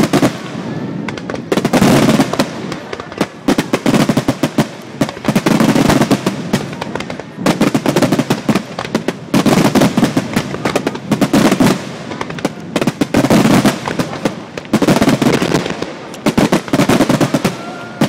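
Starmine fireworks display: rapid volleys of aerial shells bursting, with dense bangs and crackling that swell in waves about every two seconds.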